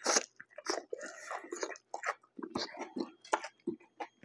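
A person biting into a Subway sub sandwich and chewing the mouthful, with irregular wet mouth clicks and smacks. The bite comes right at the start and is the loudest sound.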